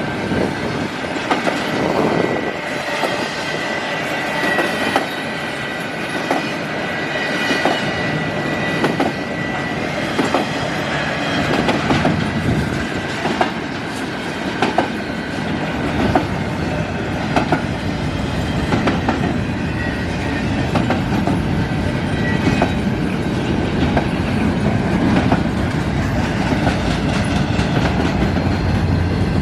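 Canadian National intermodal freight train rolling past at speed, its wheels clicking over rail joints about once a second over a steady rumble. A thin, high wheel squeal rings over roughly the first third and then fades.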